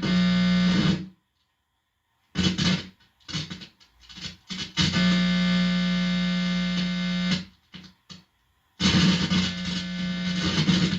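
Guitar amplifier buzzing loudly with a low hum as the bare tip of a guitar cable is touched to skin; this is the electrical hum the body picks up, which the owner takes for a directed-energy 'beam' sound. The buzz cuts out about a second in and comes back in stutters. It holds steady for a couple of seconds, crackles, and returns near the end.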